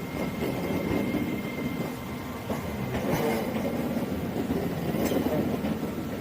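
Passenger train rolling slowly through the station, wheels clattering over rail joints and points, with a steady low rumble and a few sharper knocks.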